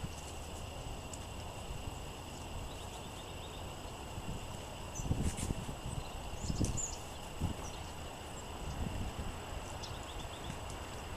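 Wind gusting on the microphone, with several stronger rumbling gusts in the middle. Small songbirds give a few short high chips and twitters over it.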